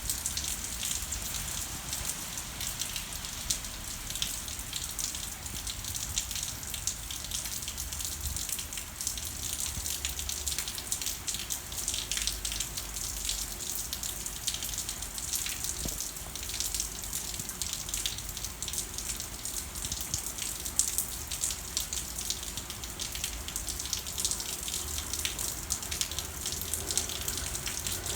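Steady rain falling, a continuous hiss full of small, quick drop hits, with a low rumble that comes and goes underneath.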